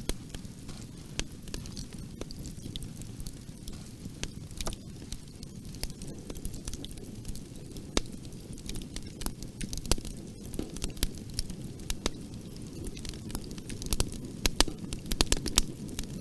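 Wood fire burning in a fireplace: a steady low rumble of flames with irregular sharp crackles and pops, coming thicker and louder near the end.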